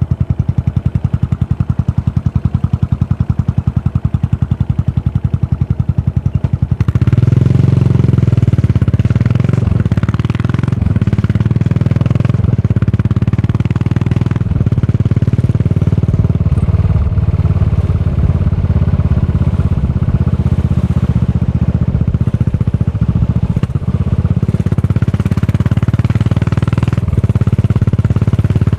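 Yamaha SR400's single-cylinder four-stroke engine running through a Goods tapered-cone slip-on muffler, first idling in evenly spaced exhaust pulses. About seven seconds in it suddenly gets louder, with wind and road noise over the exhaust as the bike rides under way.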